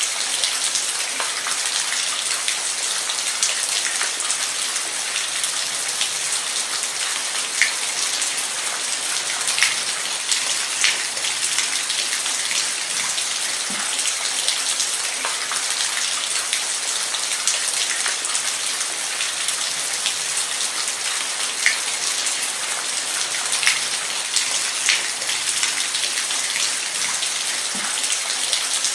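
Steady rain falling, a continuous hiss with the sharp ticks of individual drops striking a surface scattered through it.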